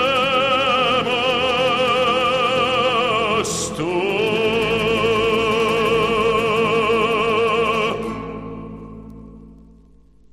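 Male operatic singer with accompaniment holding the song's final long note with wide vibrato, a quick breath about three and a half seconds in, then a second held note that ends at about eight seconds and dies away in reverberation.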